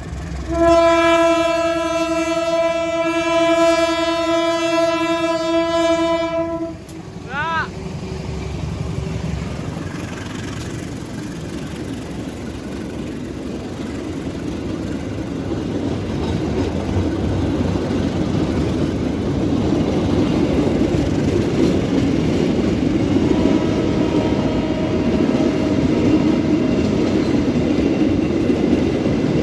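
Train horn sounding one long, steady blast for about six seconds, then a short bending toot. After it comes the rumble of a train of flat wagons loaded with concrete sleepers, growing louder as it approaches and rolls past. A fainter horn note sounds about twenty-three seconds in.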